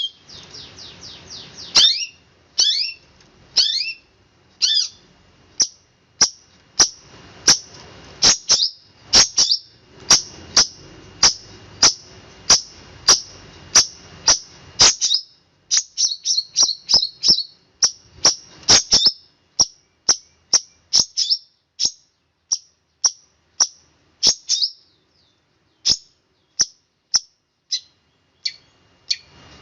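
Long-tailed shrike singing a rapid run of short, sharp, high notes, each sweeping down in pitch, a few a second with tighter clusters in places. This is the fast, tight 'roll' song that cendet keepers prize, and it breaks off in brief pauses near the end.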